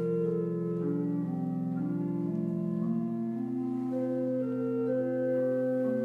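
Organ playing slow sustained chords, the notes moving in steps from one held chord to the next.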